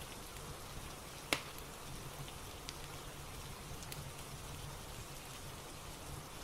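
Steady rain ambience with scattered crackles from a fire. One sharp pop about a second and a half in is the loudest sound.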